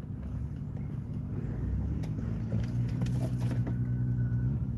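Car engine running, heard inside the cabin as a steady low hum, with a few faint clicks.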